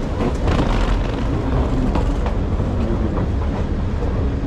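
Sydney suburban train running along the track: a steady low rumble with scattered clicks and knocks from the wheels on the rails.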